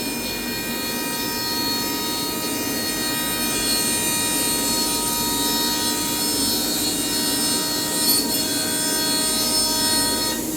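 Acctek ATC CNC router running: a steady machine whine made of several held tones over a rushing noise.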